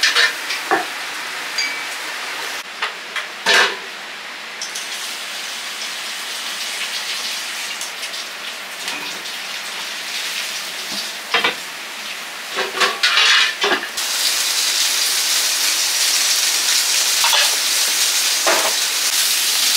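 Food sizzling in hot oil in a wok, with scattered sharp clanks of metal utensils against the pan. The sizzle grows louder about two-thirds of the way through.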